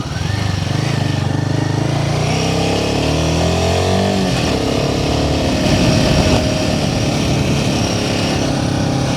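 Royal Enfield Himalayan 450's single-cylinder engine pulling away under throttle. It rises in pitch for the first few seconds, drops back about four seconds in, then runs steadily.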